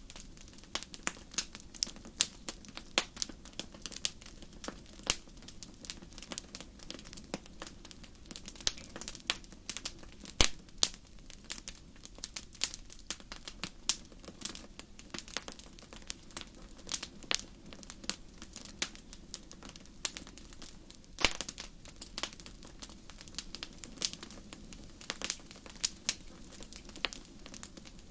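Fireplace fire crackling: dense, irregular sharp pops and snaps over a low, steady rustle of flames, with a few louder pops about ten seconds in and again about twenty-one seconds in.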